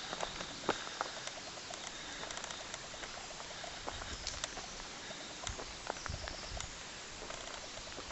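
Footsteps of a walker on a forest track, a run of small crunches and clicks over a steady outdoor hiss, with a few dull low thumps in the middle.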